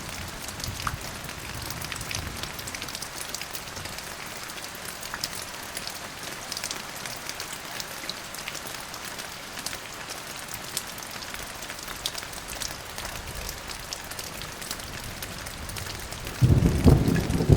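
Steady rain falling on a surface, with fine drip ticks. Near the end, a sudden loud low rumble of thunder breaks in.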